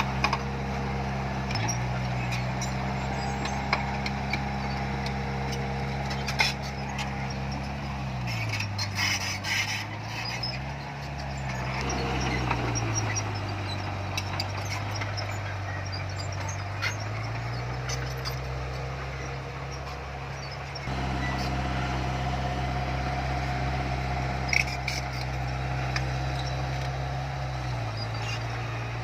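Heavy diesel engine of earthmoving machinery running, its speed sagging and picking up again several times as it works under load, with scattered knocks and clanks.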